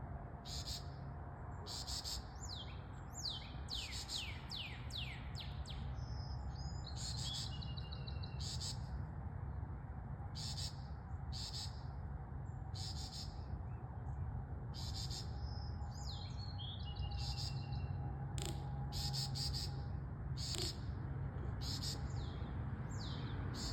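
Wild birds calling in the morning: a sharp, high call repeated about once a second, with a quick series of falling whistled notes a few seconds in and warbling phrases later, over a steady low rumble.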